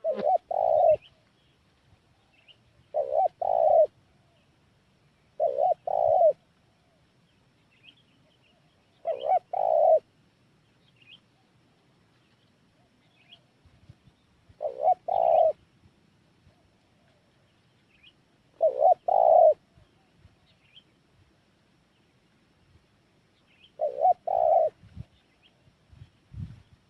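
Spotted dove cooing: seven phrases of two or three quick, low coos, each phrase a few seconds apart. Faint chirps from small birds sound between the phrases.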